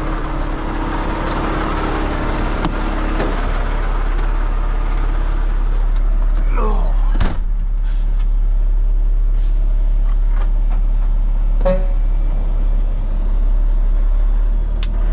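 Heavy diesel engine of a Peterbilt rotator wrecker running steadily as the truck pulls forward, with a hiss of air over the first few seconds. A sharp click comes about seven seconds in.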